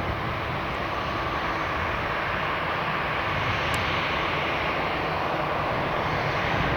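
Jet airliner engines heard as a steady rushing noise that slowly grows louder as the aircraft comes nearer.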